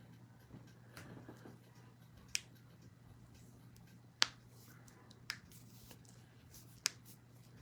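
Four sharp, short clicks at uneven gaps over a faint, steady low hum.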